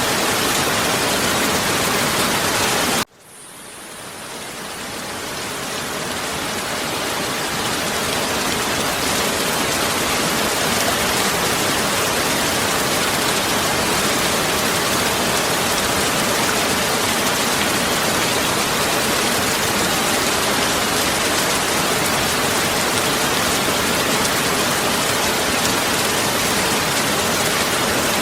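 Heavy rain falling steadily, a dense even hiss. About three seconds in it cuts out abruptly, then swells back to full strength over several seconds.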